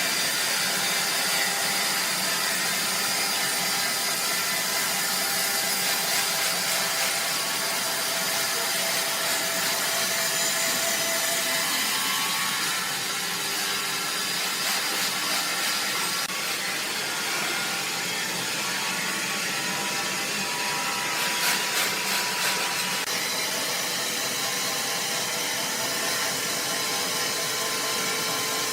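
Sawmill machinery running steadily: a dense mechanical noise with several faint steady whining tones, rising briefly into a louder high hiss about three-quarters of the way through.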